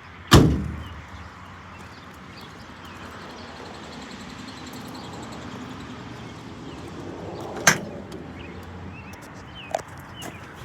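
Two slams of a vehicle door, about seven seconds apart, the first louder with a short low boom after it, then a lighter knock near the end.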